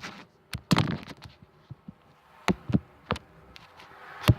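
Slime being handled in the hands, giving a few scattered sticky clicks and pops, the sharpest near the end.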